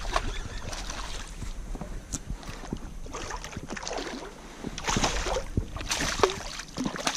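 Scattered short knocks, clicks and splashing around a plastic fishing kayak while a freshly landed redfish is handled, with a few louder splashy bursts about five seconds in.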